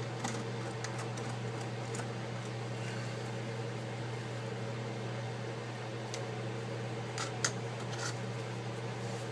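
Steady low electrical hum of a running fan or appliance, with a few faint, small clicks and taps of work on the opened iPad, the strongest a sharp tick about seven and a half seconds in.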